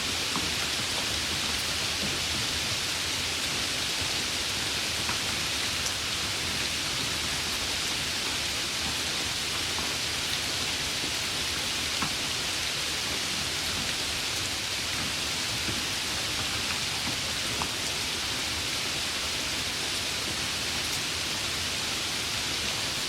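Heavy rain falling steadily, an even hiss with an occasional single drop ticking.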